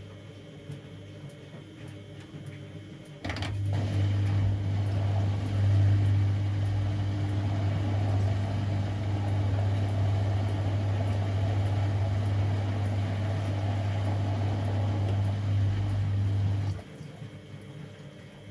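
Siemens Extraklasse XLs 140 A washing machine running a water stage of its cycle. About three seconds in there is a click, then a steady electric hum with rushing water over it. It stops abruptly about thirteen seconds later.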